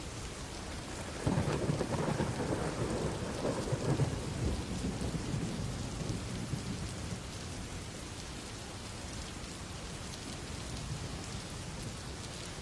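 Steady rain hissing, with a roll of thunder that comes in suddenly about a second in, rumbles for several seconds and fades away.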